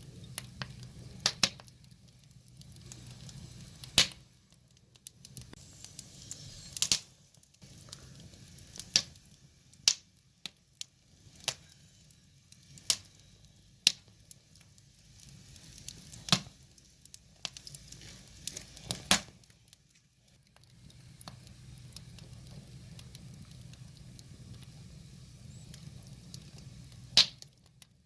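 Burning firewood crackling, with irregular sharp pops, a handful of them loud, over the soft low rumble of the flames.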